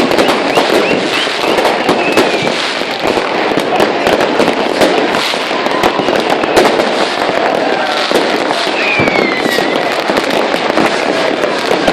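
Dense New Year's Eve fireworks and firecrackers: a continuous barrage of overlapping bangs and cracks with no pause.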